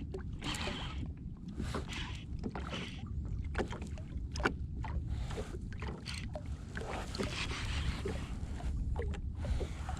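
Water slapping and splashing against a kayak hull, with irregular small knocks, over a steady low rumble.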